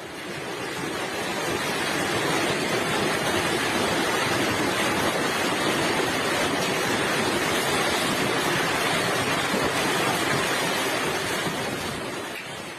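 Hailstorm: hail and heavy rain coming down hard in a dense, steady hiss that swells in at the start and fades near the end.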